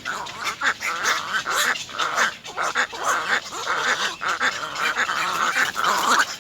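Little egret chicks giving loud, harsh begging calls in a rapid, overlapping chatter, several calls a second, as they demand food from the parent.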